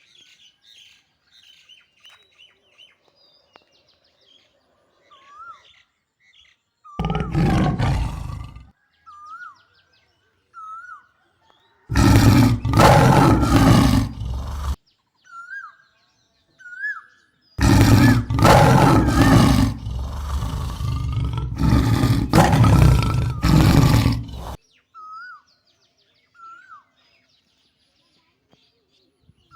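Three loud, rough animal calls, the last one long, over a small bird chirp that repeats evenly throughout.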